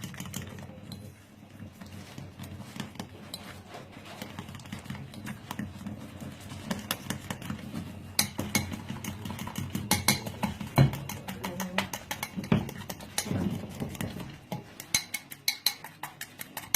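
Egg-and-flour batter being beaten in a bowl: a utensil clicks and scrapes against the bowl in quick, irregular strokes, growing louder and more rapid about halfway through, over a low steady hum.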